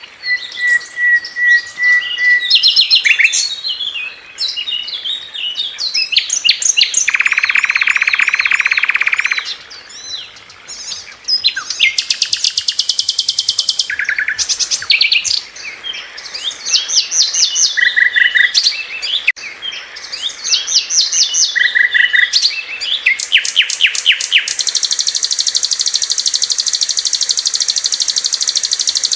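Sikatan londo flycatcher singing continuously in a long, varied song of rapid trills and repeated chirps, broken by short clear whistles and several long buzzy rattling phrases.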